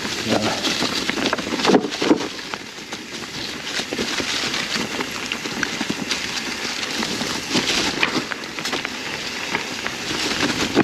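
Mountain bike tyres rolling fast over dry fallen leaves and rocks on a steep trail descent: a continuous crackling rustle dotted with sharp clicks and knocks from the bike.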